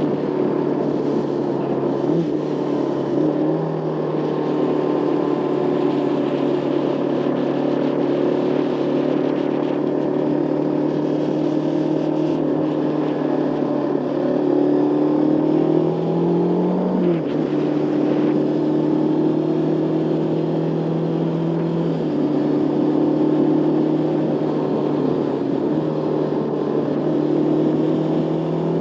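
Motorcycle engine running at steady riding revs, its pitch stepping slightly up and down. About two thirds in it rises briefly and then drops suddenly.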